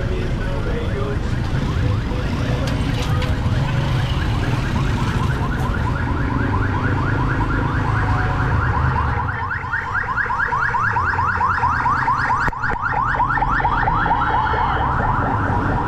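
Car alarm sounding a rapid run of rising electronic chirps, several a second, growing louder about nine seconds in, over a steady low street rumble.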